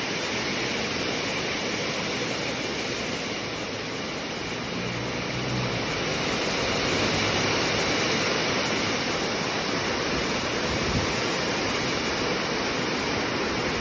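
Steady rain falling: an even hiss with no separate sounds in it, growing slightly louder about six seconds in.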